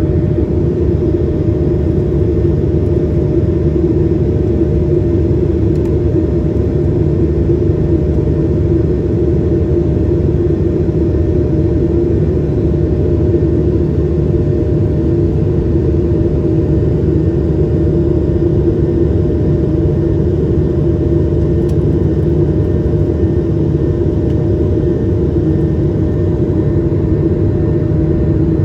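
Steady engine drone heard inside the cabin of an Airbus A220-300, from its Pratt & Whitney PW1500G geared turbofans, a deep rumble with a constant hum running through it.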